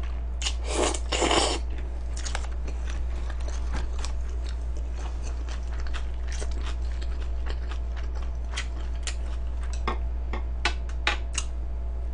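Close-miked chewing of a mouthful of grilled pork belly, with two loud crunching bites about a second in, followed by many soft, wet mouth clicks as the chewing goes on. A steady low hum runs underneath.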